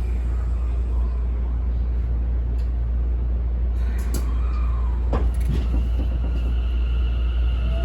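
Inside a Tokyo Metro 10000 series train standing at a station: a steady low hum of the onboard equipment, with a few sharp clicks and a short falling tone about halfway. Right at the end a rising whine begins as the train's motors start to pull away.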